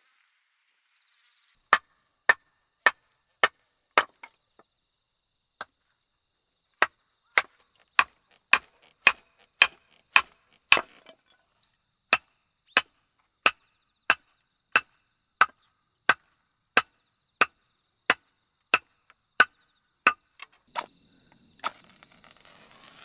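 Firewood being chopped: a steady run of sharp strokes, about one and a half a second, with two short pauses.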